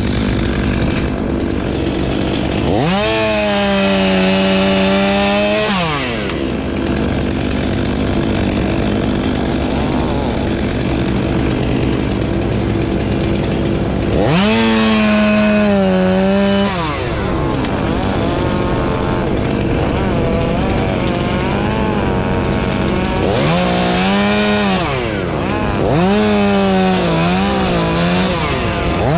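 Gas chainsaw idling and revved up to full throttle again and again: long pulls about three seconds in and about fourteen seconds in, then a run of shorter, wavering revs near the end.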